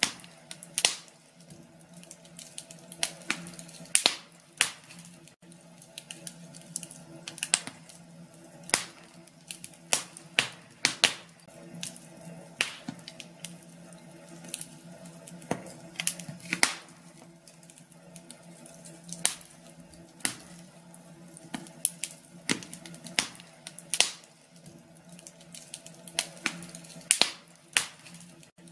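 Wood fire in a fireplace crackling, with irregular sharp pops and snaps a few times a second over a faint steady hum.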